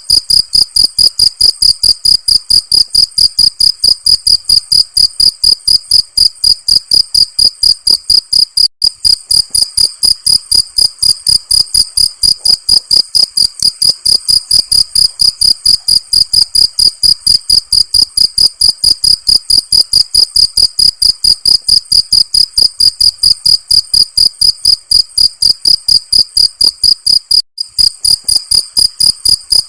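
Crickets chirping in a steady, rapid train of high-pitched pulses, several a second. The chirping breaks off for an instant about nine seconds in and again near the end.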